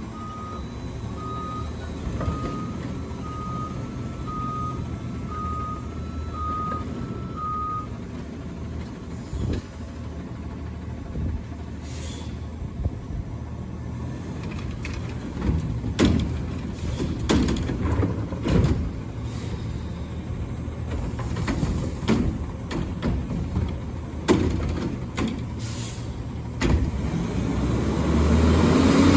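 Garbage truck's diesel engine running with its reversing beeper sounding about once a second for the first eight seconds. Later come a series of metallic clanks and knocks, and the engine speeds up near the end.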